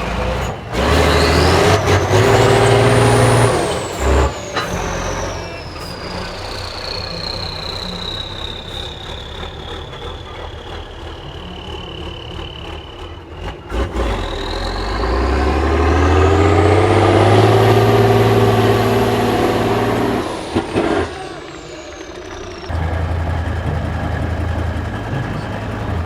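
Heavy off-road truck's turbodiesel engine revving hard twice, with a high turbo whistle that climbs as it revs and winds slowly down after each surge.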